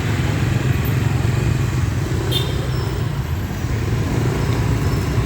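Steady low engine hum from motor vehicles in road traffic, with a brief high squeak about two and a half seconds in.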